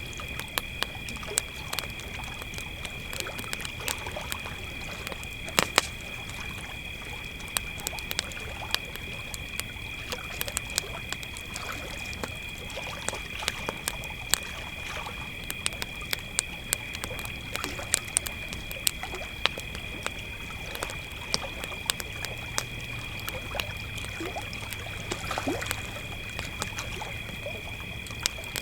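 Crickets trilling steadily over a crackling campfire with frequent sharp pops, and a low steady rumble underneath.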